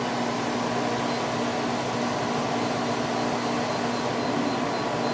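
Idylis 12,000 BTU portable air conditioner running on low fan speed just after start-up, its rotary compressor and fans going together as a steady whooshing with a low hum. No exhaust hose is fitted, so the air blows out of the back freely.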